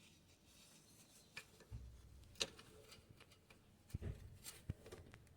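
Near silence broken by a few faint, sharp clicks and knocks, the loudest about two and a half seconds in.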